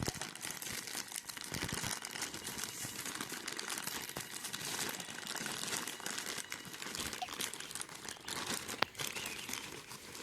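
Plastic snack packet crinkling continuously as it is handled, with many small crackles and one sharper click about nine seconds in.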